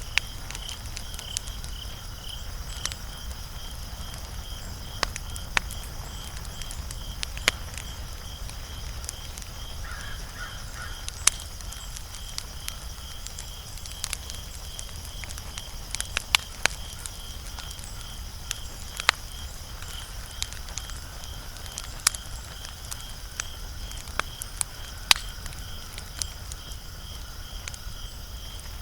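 Wood fire crackling, with sharp irregular pops and snaps, the loudest about 11, 16 and 25 seconds in. Behind it runs a steady, high, pulsing chirp at a few pulses a second.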